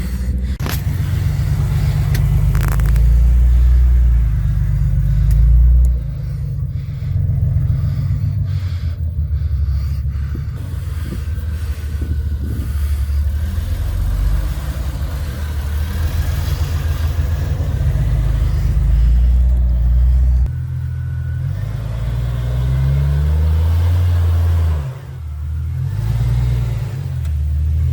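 Off-road vehicle engine running under way, a heavy low rumble whose pitch rises and falls with the throttle. It drops back briefly about six seconds in, again near twenty seconds, and once more shortly before the end.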